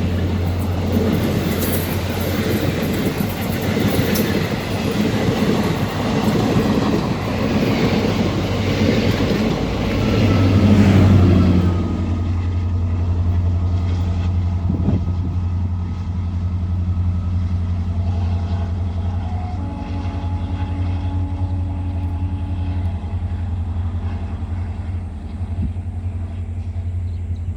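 ICF-built diesel-electric multiple unit (DEMU) train running, with a steady low engine hum throughout. A loud rush of train noise fills roughly the first twelve seconds, then drops away suddenly, leaving the quieter hum and a few faint steady tones.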